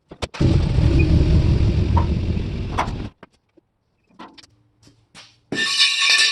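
A large steel truck flatbed being moved out of a shop: a loud rumbling, rattling noise for about three seconds, a few scattered knocks, then a short high metallic scrape or squeal near the end.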